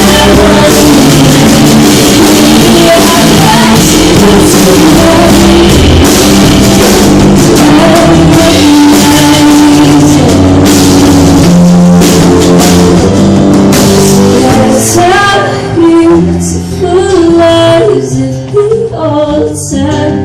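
Live band playing loud rock-style music with drum kit and guitar, recorded on a phone so the sound is overloaded. About fifteen seconds in, the band drops to a quieter passage with a voice line that bends in pitch.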